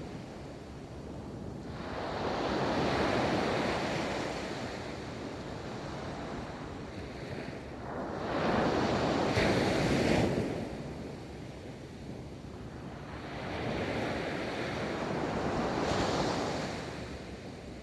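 Ocean waves rolling onto a beach: three waves build, break and wash out, each swell of surf rising and falling over a few seconds.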